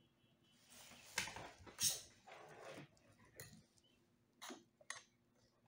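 Close hand-handling noises: rustling and scraping as double-sided adhesive tape is worked along the iMac's frame, with a few light clicks in the second half.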